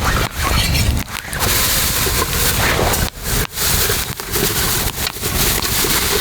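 Wind buffeting the microphone: a loud rushing noise broken by short, sudden dips several times.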